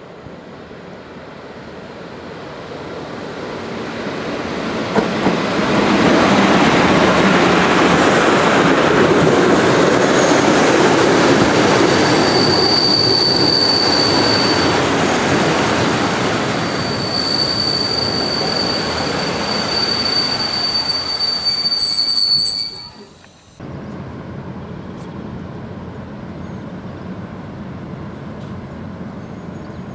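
TLK passenger train running on the rails, its noise building over the first few seconds and staying loud. A high, steady wheel squeal comes in twice, for a few seconds each time. Around 23 seconds in the sound drops suddenly to a quieter, steady rumble.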